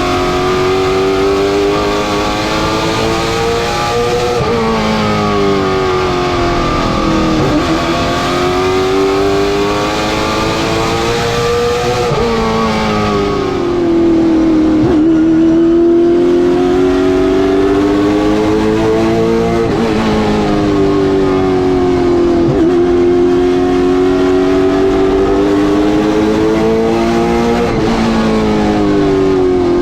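Late-model stock car engine running laps at speed. Its pitch climbs slowly, then drops sharply as the car lifts off, then climbs again, over and over.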